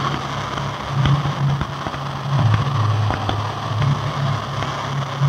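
Fireworks going up, with scattered small crackles and pops, over a steady low hum that drops in pitch for about a second midway.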